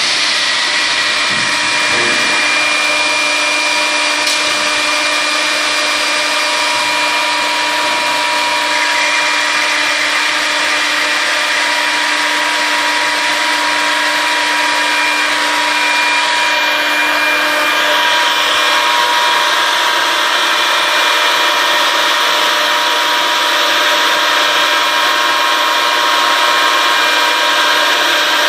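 Stemas CNC wood machining centre running its program: the router spindle whines steadily as its cutter machines wood, with a slight change in the sound a little past halfway.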